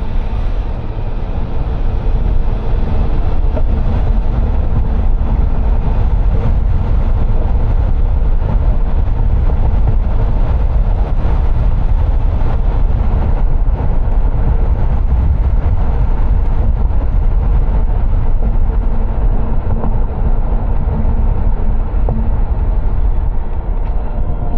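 Steady road and engine rumble of a car driving, loud and unbroken, with most of the sound in the low end.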